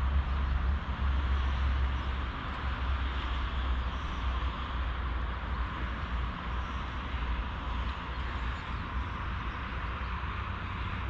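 Yamaha XVS 650 Drag Star's V-twin engine running at low speed, a deep rumble that eases off a little about two seconds in, with steady wind noise over the helmet-mounted microphone.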